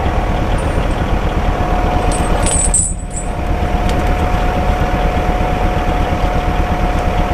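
An engine running steadily under load, with a steady whine held throughout. A brief high-pitched jingle comes about two to three seconds in, followed by a short dip in the level.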